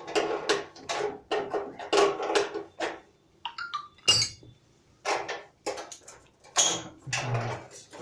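Metal hand tools and heater valve parts clinking and knocking against each other in an irregular run of sharp strikes, densest in the first three seconds.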